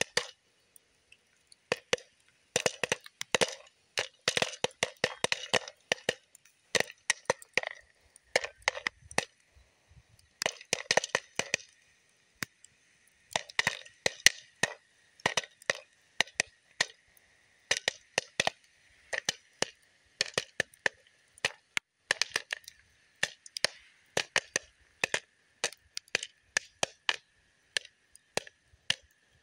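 Popcorn kernels popping in a popper: irregular sharp pops, coming in dense clusters in the first half and thinning out toward the end as the batch nears done.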